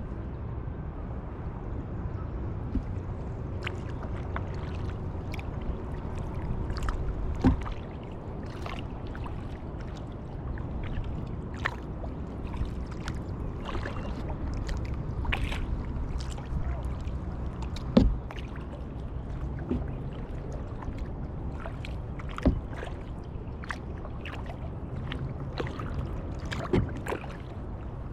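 Kayak paddling: the paddle dipping into the water with many small splashes and drips, over a steady low rumble. A few louder knocks stand out, about four in all, spread through the stretch.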